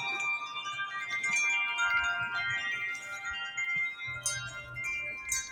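Wind chimes blown hard by the wind, many tubes struck in quick succession, their ringing tones overlapping in a continuous jangle.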